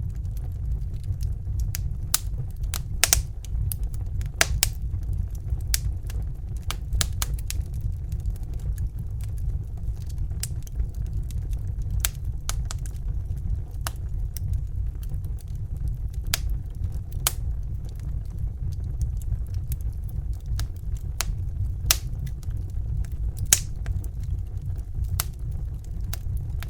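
Crackling fire: irregular sharp pops and snaps, a few a second, over a steady low rumble of flame.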